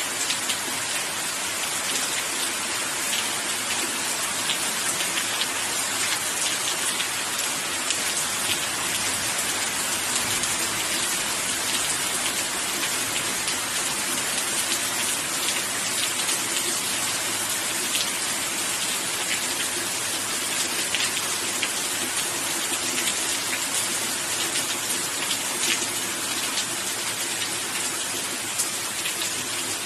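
Steady rain falling on a surface, a dense even hiss with individual drops ticking through it.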